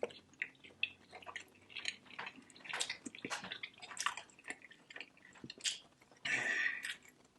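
Close-up wet chewing and lip smacking while eating barbecue chicken wings: a string of small clicks and smacks, with one longer, louder mouth sound a little past six seconds in.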